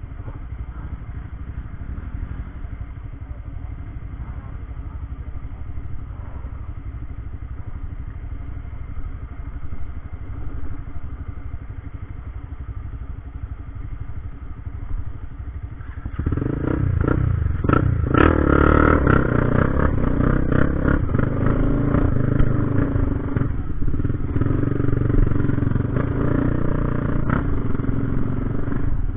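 Motorcycle engine running steadily, then louder and rougher from about halfway through, with scattered clattering knocks.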